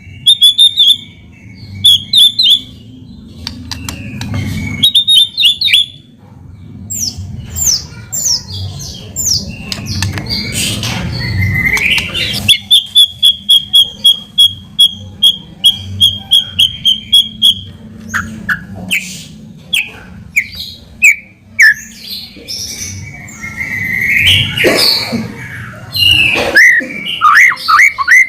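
White-rumped shama (murai batu) singing a varied song of sliding whistles and chattering phrases. Near the middle it gives a run of rapid repeated notes, about three a second, for some five seconds. A low steady hum runs underneath.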